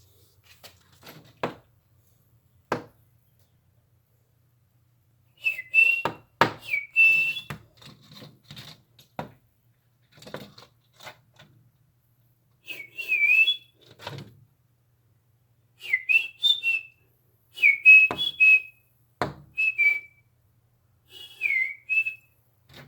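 Woodpecker pecking at window glass: irregular sharp knocks, some single, some in quick pairs. Between and with the knocks come short high whistle-like chirps that dip and rise in pitch.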